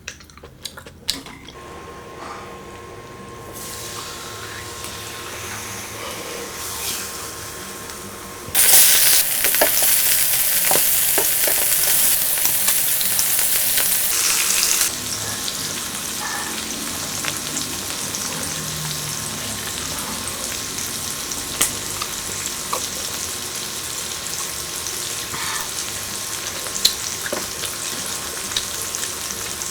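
Beef tripe and octopus sizzling on an electric grill, a steady frying hiss with occasional sharp pops. The sizzle builds slowly, then turns much louder and hissier for about six seconds a third of the way in before settling back.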